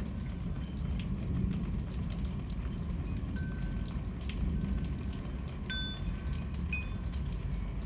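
Rain falling, with many small drips and splashes, over a steady low rumble. A wind chime rings with a few short, clear tinkles, mostly in the second half.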